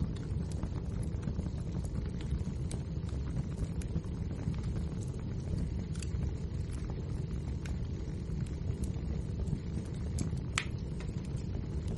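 Wood fire burning, a steady low rumble of flames with scattered crackles and pops from the burning logs, one sharper pop near the end.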